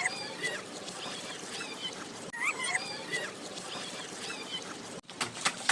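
Steady hiss of heavy rain, with short, high squeaky calls over it about once a second. Near the end the sound briefly cuts out, then a quick run of sharp taps follows.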